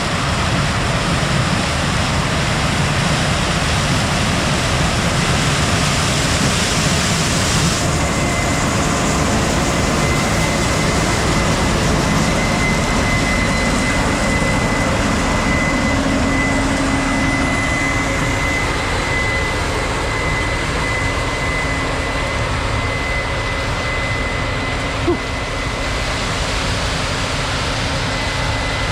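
Combine harvester running steadily while harvesting corn, a loud dense machine noise. A thin high whine comes in about eight seconds in and holds, with one sharp click near the end.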